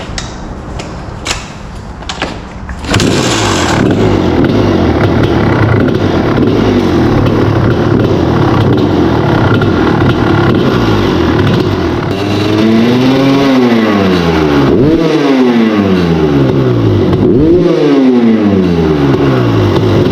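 A 2001 Kawasaki KX250's single-cylinder two-stroke engine, with the stock silencer fitted: a few clacks, then the engine fires about three seconds in and runs steadily. In the second half it is blipped up and back down three times.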